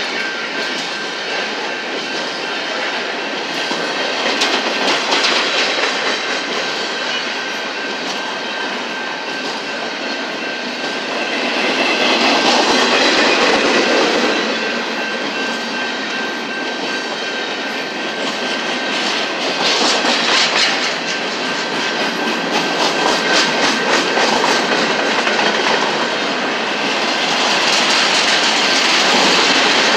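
Empty intermodal well cars of a freight train rolling past, with steady wheel-and-rail noise and the clickety-clack of wheels over the rails. The noise swells louder several times as cars go by, and a thin steady high tone runs under it.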